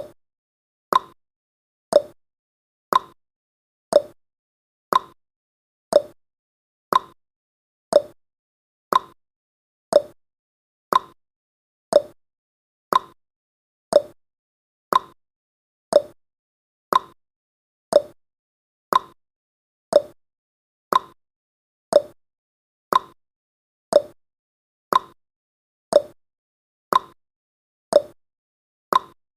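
Clock-style ticking sound effect of a countdown timer, one short tick each second, evenly and without break.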